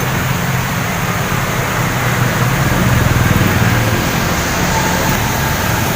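Steady running noise of a moving road vehicle: a low engine rumble under a broad rush of road and wind noise.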